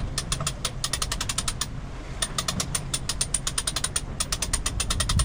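Sailboat sheet winch being cranked by hand, its pawls clicking rapidly as the jib sheet is trimmed in, with a short pause about two seconds in.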